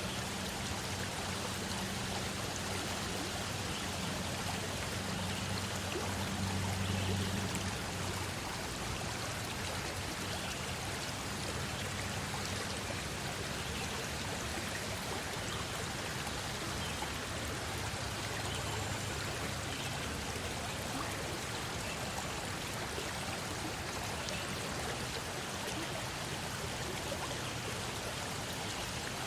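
Steady rushing of a forest stream, an even wash of running water that does not change. A low hum sits under it and fades after the first several seconds.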